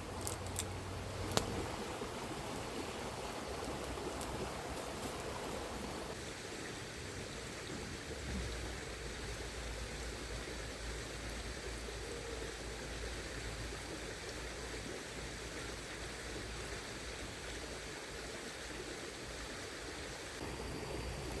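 Shallow river flowing steadily, an even rushing of water, with a couple of small knocks in the first second and a half.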